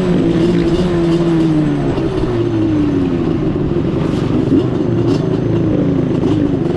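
Off-road vehicle engine running steadily under way, its pitch easing down and back up with the throttle.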